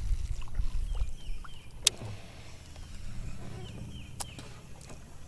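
Low rumble of wind on the microphone in a fishing boat, with two sharp clicks about two seconds and four seconds in, and a few faint high chirps.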